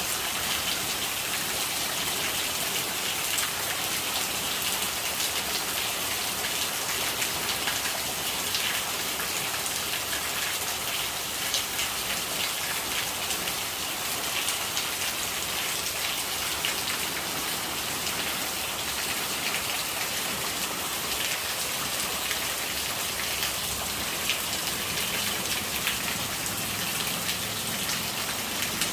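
Steady rain falling, with dense drops pattering on surfaces and rainwater gurgling as it runs off.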